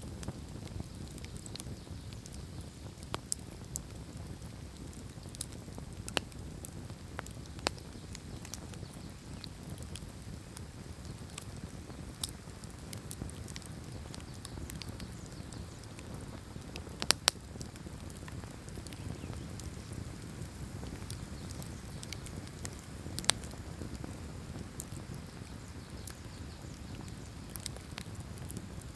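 Wood campfire burning: a steady low rush of flame with scattered sharp crackles and pops, the loudest a quick double pop about 17 seconds in.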